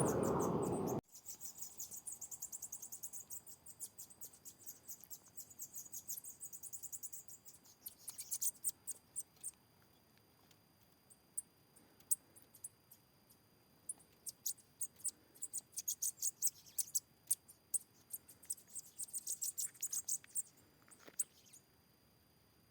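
Bananaquit (sibite) singing: bouts of very high, rapid, buzzy trills and chips, with short pauses between bouts. A loud rumbling noise cuts off about a second in.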